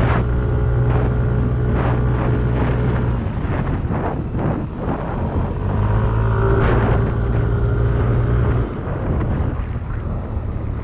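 Yamaha Aerox 155 scooter's single-cylinder engine running while ridden over rough ground, with repeated knocks and jolts. A steady low rumble drops away about three seconds in and comes back for a few seconds before fading again.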